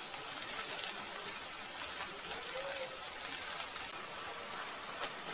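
Onion and ginger-garlic paste sizzling in butter and oil in a kadhai as it is sautéed, a steady hiss with small scattered crackles.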